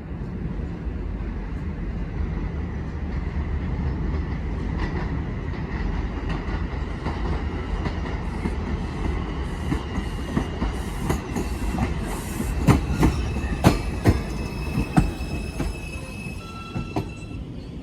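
New York City Subway 4 train rolling into the station: a steady low rumble of wheels on rail, a run of loud clacks over rail joints about two-thirds of the way through, then wheel and brake squeal near the end as it slows.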